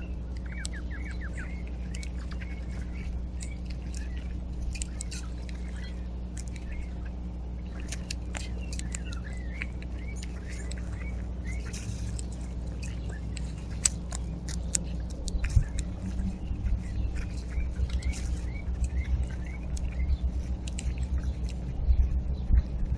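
Small backyard birds chirping at a feeder: many quick, short chirps throughout, over a steady low hum. Irregular low thumps come in during the last third.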